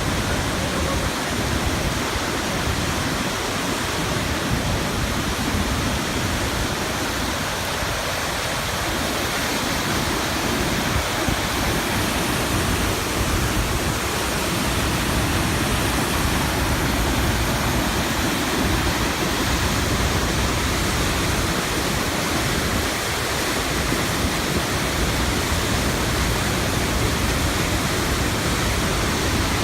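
Dudhsagar Falls, a large waterfall, rushing in a loud, steady roar of falling water.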